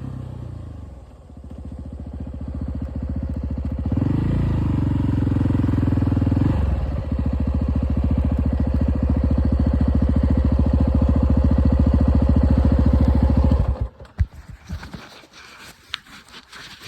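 KTM 690 SMC R's single-cylinder engine with its revs falling off, then running at low revs with an even, pulsing beat and a louder stretch about four seconds in. It cuts off suddenly near the end, after which there are only a few scattered clicks and scrapes.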